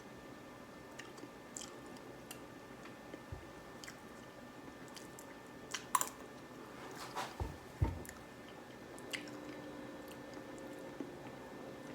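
A person eating soft, mushy instant oatmeal: faint chewing and mouth sounds with scattered small clicks, and a few louder ones around six and eight seconds in.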